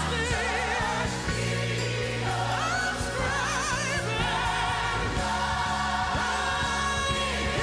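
Gospel-style worship song: voices singing long notes with wide vibrato over instrumental backing with sustained bass notes.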